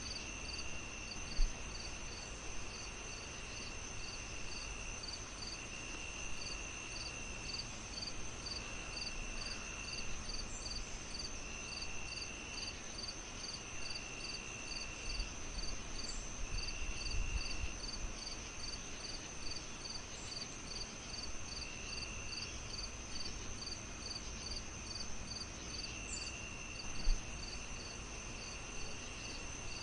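Crickets chirping in even pulses, about two a second, over a constant high insect trill, with longer trills breaking in now and then. Under them a fire hisses softly and pops sharply twice.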